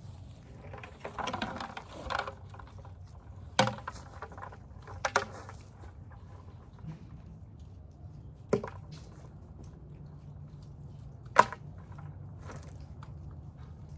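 Snails being picked up and dropped into a bucket: about five sharp clicks scattered several seconds apart, the loudest late on, with rustling near the start and a steady low hum underneath.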